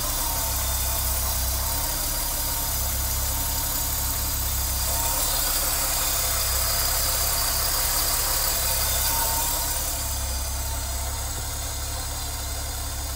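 Old BMW's inline engine idling steadily, freshly started after being revived on jumper cables from extra batteries.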